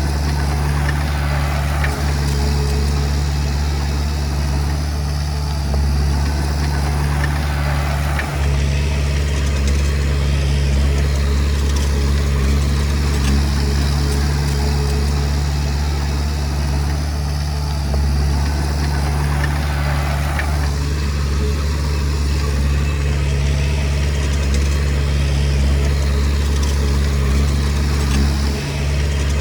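Diesel engine of a Komatsu D20P bulldozer running steadily under work, with a low constant hum. Louder rattling comes over it for the first eight seconds and again for a few seconds about two-thirds of the way through.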